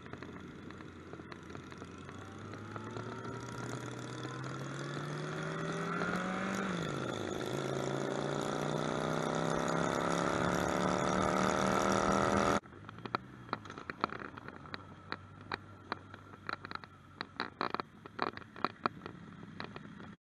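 Yamaha XJR1300's air-cooled inline-four engine accelerating under load, its note climbing steadily, dropping once at an upshift about six and a half seconds in, then climbing again, with wind noise, until it cuts off abruptly about twelve and a half seconds in. After the cut, a quieter stretch of scattered clicks over a faint low engine note.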